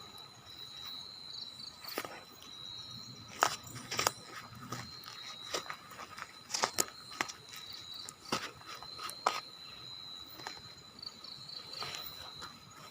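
Crickets or other insects chirring steadily on one high, constant pitch. Over it come scattered sharp clicks and crunches at irregular times, the loudest about three and a half seconds in.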